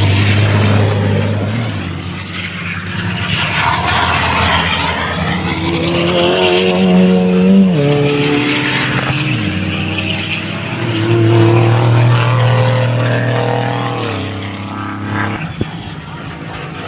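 Race trucks' engines running hard on the circuit, loud throughout. The pitch climbs for a couple of seconds about six seconds in, then drops sharply; the engines swell again after about eleven seconds.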